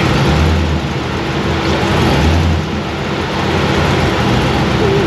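Supercharged LT-series V8 idling steadily. One cylinder has a misfire that the crew put down to low compression, from a leaking head or ring, rather than a bad coil.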